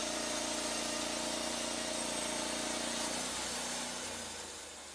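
Portable band sawmill running, its engine and band blade going steadily; about three and a half seconds in, the sound shifts and gets a little quieter.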